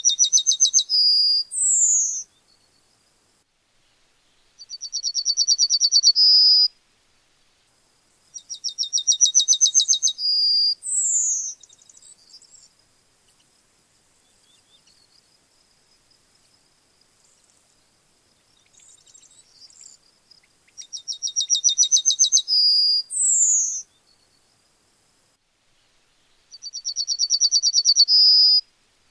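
Yellowhammer singing its song five times. Each song is a fast run of repeated high notes that grows louder, ending in one or two longer notes; three of them finish with a brief high falling note. Faint, scattered notes fill a longer pause in the middle.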